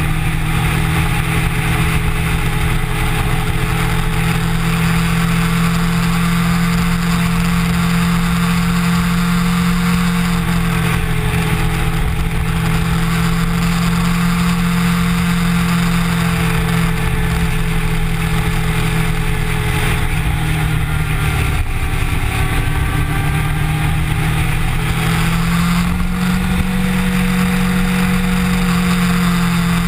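Kawasaki Ninja motorcycle engine running at a steady cruise. The engine note eases down about ten seconds in, breaks briefly a little past the twenty-second mark, then climbs again near the end.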